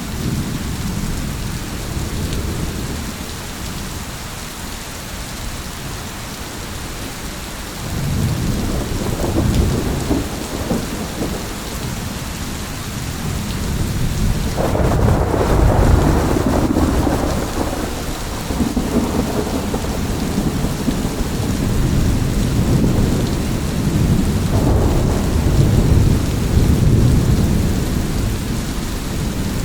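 Steady rain with rolling thunder. The rumbling builds about eight seconds in, a sudden louder peal comes about halfway through, and further rolling rumbles continue toward the end.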